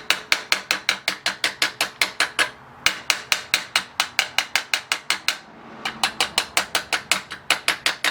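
Rapid, light hammer taps on a small bent metal part held in a clamp, about five strikes a second in runs with two short pauses, tapping the bend down flat.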